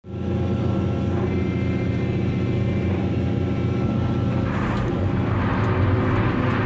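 Heavy diesel machinery running with a steady low drone and a faint higher whine. About four and a half seconds in, a rougher rushing noise rises over it.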